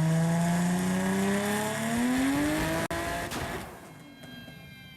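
Car engine accelerating hard, its pitch rising steadily. It cuts off abruptly about three seconds in, leaving a brief rush of noise that fades away.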